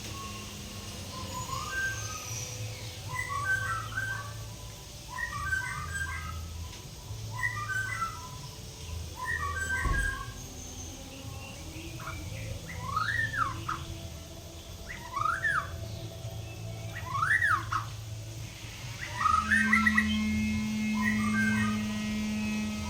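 White-rumped shama (murai batu) singing: short repeated chirpy phrases about every second, then a few separate rising-and-falling whistled sweeps, then chirpy phrases again. A steady electrical hum comes in near the end.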